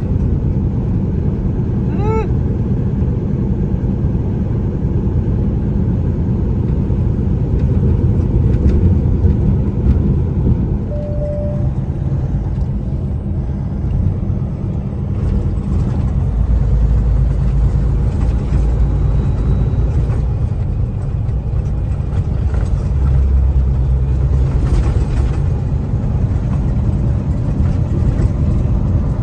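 Steady low rumble of a semi truck driving, heard from inside the cab: engine and road noise without a break.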